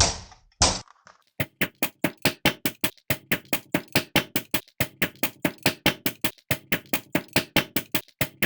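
Computer mouse button clicked over and over, about five short, sharp clicks a second, after two heavier knocks at the start.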